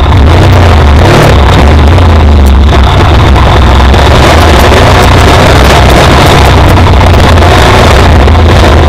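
Motorcycle engine running steadily while riding over a rough dirt trail, a loud, deep, continuous rumble.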